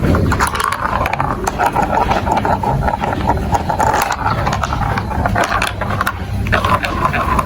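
Marbles rolling and clattering along a plastic building-block marble run: a continuous rattle of many small clicks over a low rolling rumble.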